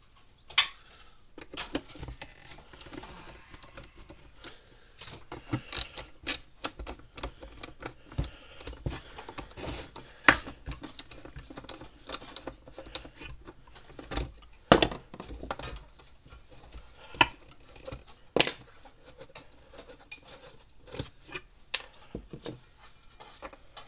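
Hand tools working at a tamper-proof Allen-head screw on a plastic-cased solar electric fence charger: irregular sharp clicks and knocks of metal on screw and casing, with scraping and handling noise between them, as the bit fails to seat flush in the screw head.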